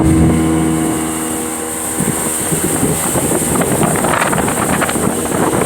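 Jet ski engine running: a steady hum for about the first two seconds, then rougher and mixed with a rushing noise.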